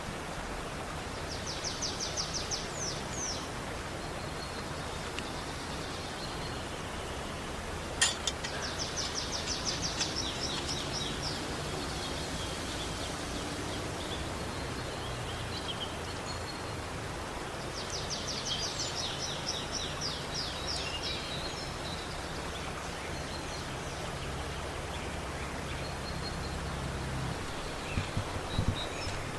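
A small songbird singing a rapid high trill three times, each phrase lasting two to three seconds, over a steady outdoor background rush. There is a single sharp click about eight seconds in, and a few small knocks near the end.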